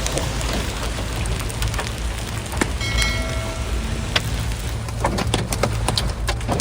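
Hailstones pelting a car's windshield and body in a dense, steady rattle, with sharp individual cracks of larger stones throughout and a low rumble underneath.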